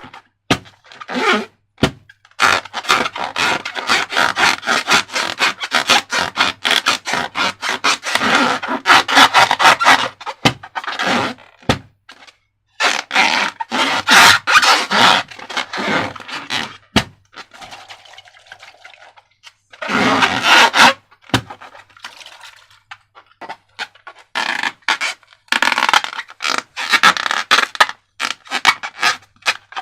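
Slime being worked by hand and tool, with dense sticky crackling and scraping in runs of several seconds, broken by short pauses and a few single sharp clicks.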